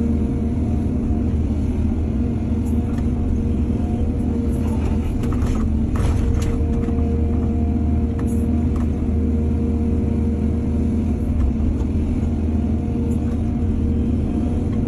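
Excavator's diesel engine running steadily, with a cluster of knocks and scrapes about five to six and a half seconds in.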